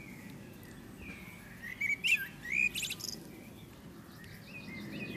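Small songbird chirping: a loud burst of sharp, sliding calls about two seconds in, then a quick run of short repeated notes near the end, over a low steady background rumble.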